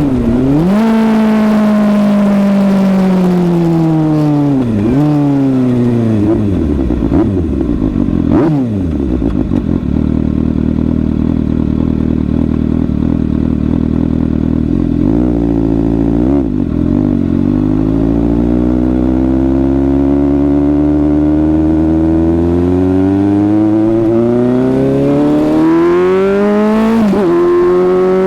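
Suzuki GSX-S750's inline-four engine. The revs fall away over the first several seconds with a couple of short breaks, run low and steady for several seconds, then climb smoothly with a gear change near the end.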